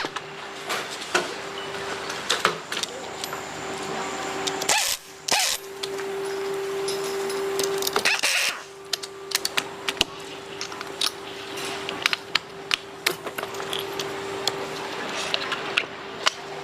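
Hand tools clicking and clinking irregularly against metal during motorcycle engine work, over a steady hum.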